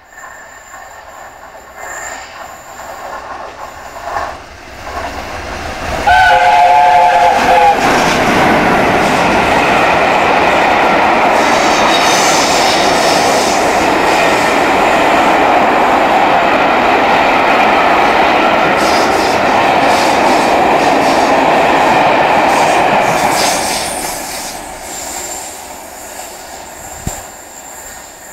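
Peppercorn A1 steam locomotive No. 60163 Tornado sounds a short whistle blast about six seconds in, then passes with its train: loud, dense rumble and wheel clatter for about seventeen seconds, fading away near the end.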